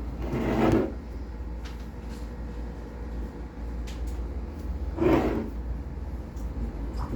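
Two short handling noises from a car air-conditioning compressor being moved, about half a second in and again about five seconds in, with a few faint clicks between them and a steady low rumble underneath.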